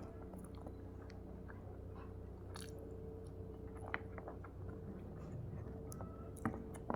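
A person chewing a mouthful of raw cabbage and eggplant sambal close to the microphone, with scattered soft clicks and crunches over a faint steady hum.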